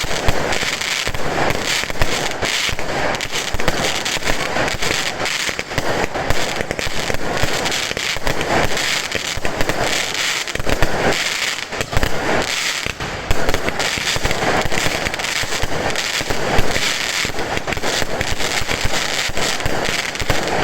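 Fireworks going off in a dense, unbroken run of sharp bangs and pops, many each second.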